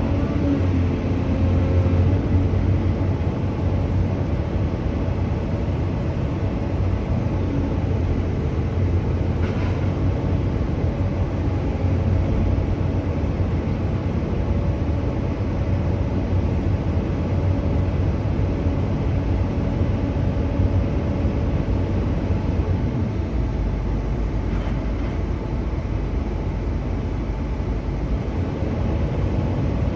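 Truck engine running steadily, an even low drone that deepens slightly about three-quarters of the way through.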